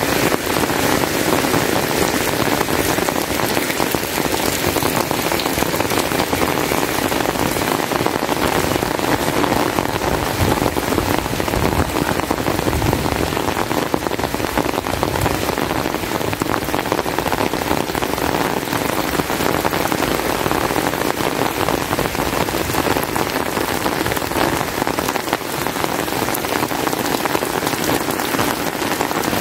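Heavy rain falling steadily, a dense even wash of drops with no thunder.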